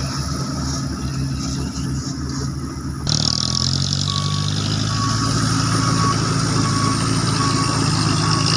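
Hino Dutro dump truck's diesel engine running with a slow, pulsing beat, then about three seconds in changing abruptly to a higher, steadier drone. From then on a short beep repeats evenly about once every 0.7 seconds.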